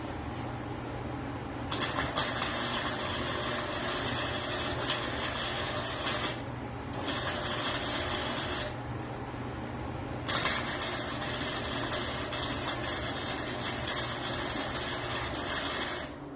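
Welding arc crackling and hissing in three bursts of a few seconds each, the last and longest ending abruptly near the end, over a steady low electrical hum.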